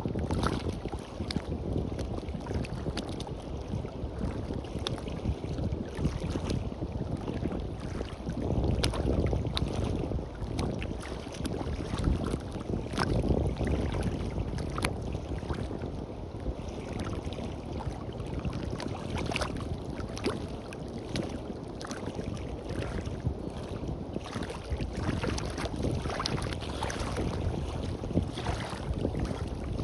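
Small waves washing and lapping at the shore, with wind rumbling on the microphone and many small crackling splashes; it swells louder for a few seconds near the middle.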